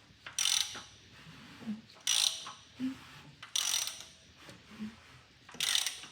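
Hand ratchet wrench clicking in four short bursts, one on each return stroke, as it is worked on the LS3 engine's valvetrain during rocker arm adjustment.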